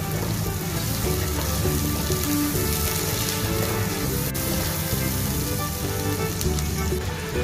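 Background music over the sizzle of chopped tomato and onion frying in oil, stirred with a wooden spatula. From about four seconds in, water splashes as it is poured through a mesh strainer into a pot.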